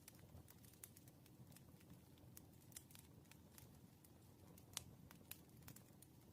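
Burning firewood crackling faintly: scattered irregular pops and snaps over a soft low rumble, with one sharper pop about three-quarters of the way through.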